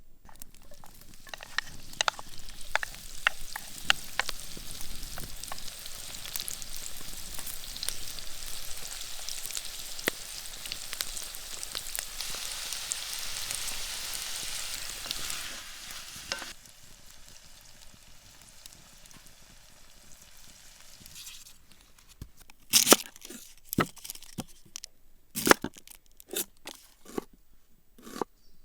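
Food frying in a pan over an open fire: a steady sizzle with crackles that cuts off abruptly about sixteen seconds in. Near the end come a series of sharp clicks and knocks.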